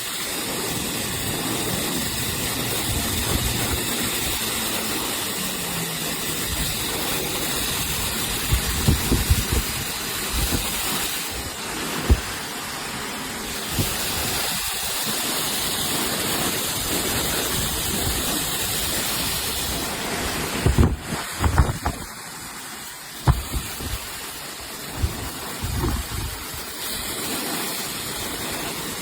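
Hair dryer running, a steady rush of air with its higher hiss shifting a couple of times and irregular low thumps of air against the microphone.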